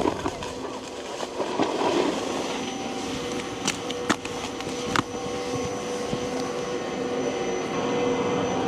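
Snowboard sliding and scraping over snow at first, giving way about three seconds in to a steady mechanical hum with a few sharp clicks.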